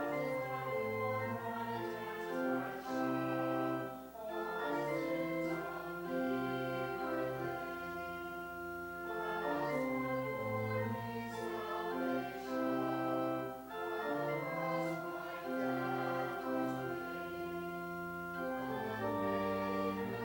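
Church organ playing a slow piece in held, sustained chords that change every second or so.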